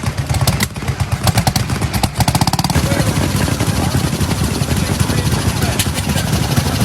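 Vehicle engine running, with fast, even firing pulses and a rattle of sharp clicks over the first couple of seconds.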